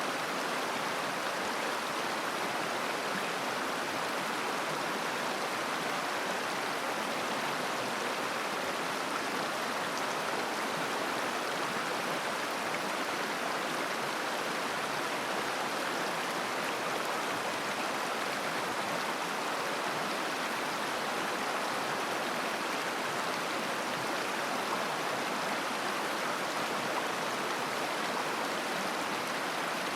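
Mountain river flowing and babbling over stones: a steady, unbroken rush of water.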